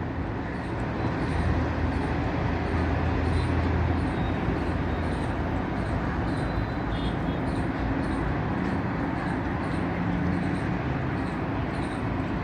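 Steady background rumble of vehicle traffic with a low hum underneath, and a faint high ticking repeating about one and a half times a second.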